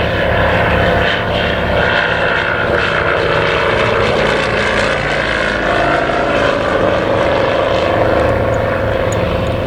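Comper Swift's Pobjoy R seven-cylinder radial engine and propeller running steadily in flight, its note dropping slightly in pitch in the second half as the aircraft passes.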